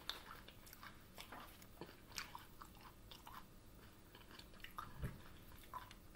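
Quiet, close-miked chewing of battered fried onion, with soft irregular crunches and mouth sounds.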